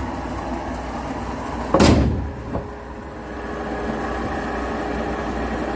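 Sawmill machinery running steadily with a low hum, and one loud knock about two seconds in, followed by a smaller one.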